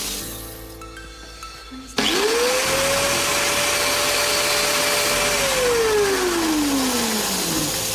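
Electric power tool motor switched on about two seconds in, spinning up quickly to a steady high whine with a hiss of noise over it, then switched off and winding down in a long falling whine over the last couple of seconds.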